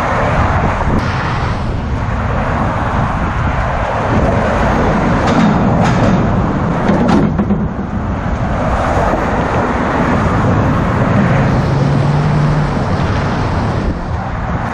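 Loud, steady noise of road traffic passing close by on the bridge, with a low engine hum rising and fading as vehicles go past and a few sharp clicks in the middle.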